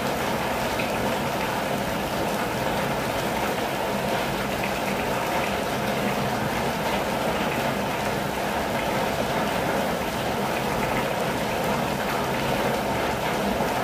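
Steady rain falling on a campervan's roof and windows, an even, unbroken hiss of drops that holds level throughout.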